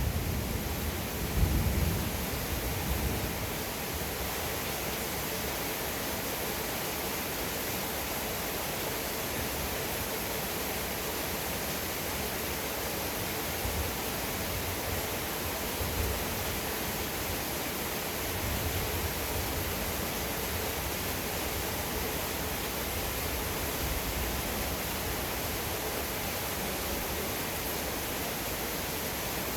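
Heavy rain falling as a steady hiss. A rumble of thunder dies away in the first few seconds.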